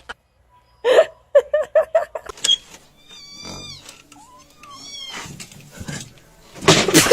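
A cat making a series of short calls, some of them higher and gliding in pitch, with a louder outburst near the end.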